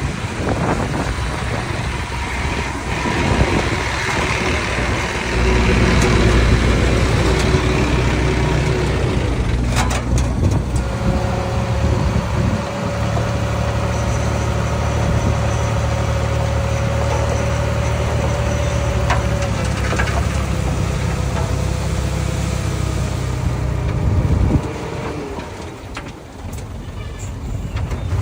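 Heavy construction machine's diesel engine running steadily, growing louder about five seconds in and dropping away near the end. A few metallic clanks sound about ten seconds in, and a thin steady whine runs over the engine for several seconds in the middle.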